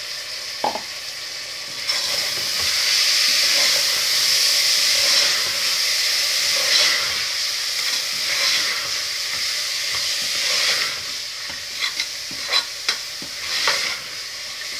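Soaked chana dal sizzling in hot oil and masala in a pressure cooker while a spoon stirs it, roasting the dal in the spices. The sizzle swells about two seconds in and eases off near the eleven-second mark, followed by several sharp knocks and scrapes of the spoon against the pot.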